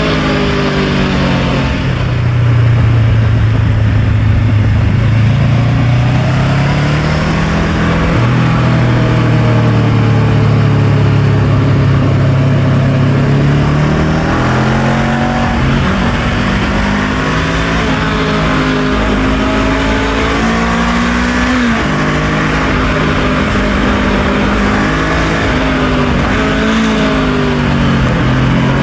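Honda NX500's 471 cc parallel-twin engine running under way, its revs climbing, holding and dropping several times as it goes through the gears, with a steady rushing noise behind it.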